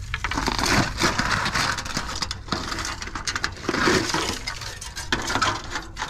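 Irregular crunching and crackling of dry debris, with light clinks mixed in.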